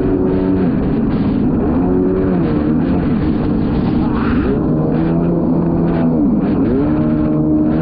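Kawasaki 650SX stand-up jet ski's two-stroke twin engine running on the water. The engine note drops and climbs back up several times as the throttle is let off and opened again.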